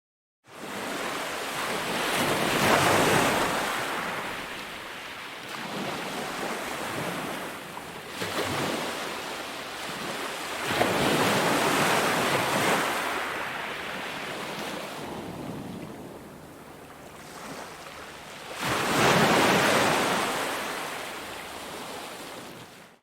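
Sea waves breaking on a beach: three big surges with a hiss of surf between them. The sound starts about half a second in and cuts off suddenly at the end.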